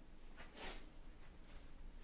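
Quiet room tone with one brief soft hiss about half a second in.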